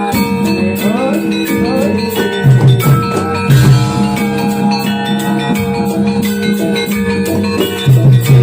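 Javanese gamelan music accompanying a jathilan horse dance: ringing struck metal tones over a pattern of heavy drum strokes.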